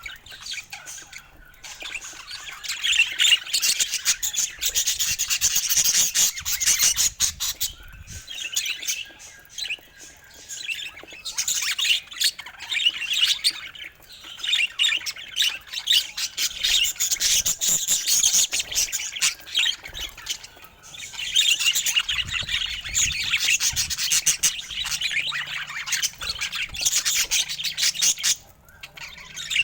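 Budgerigars chattering and warbling: long spells of fast, scratchy chirps and squawks, broken by a few short lulls.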